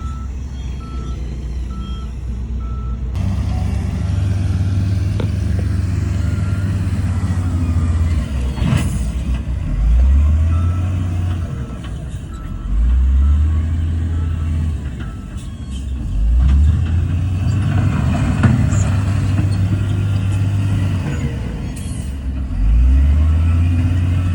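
Heavy diesel engine of earthmoving machinery working hard, its pitch rising and falling every few seconds as it is loaded and eased. A reversing beeper sounds in a steady on-off pattern during the first few seconds.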